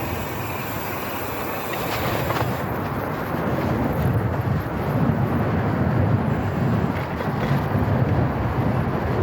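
Wind buffeting the microphone of a moving cyclist, a low rumbling noise that gets stronger about three seconds in.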